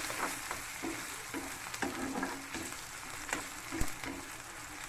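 Onions, grated ginger and curry leaves sizzling in oil in a kadai, with a spatula stirring and scraping the pan in irregular strokes.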